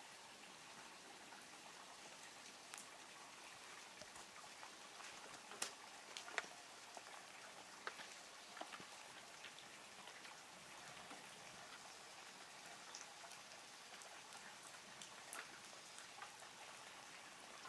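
Very faint light rain: a soft, steady hiss with scattered drops ticking, a few of them louder about six to eight seconds in.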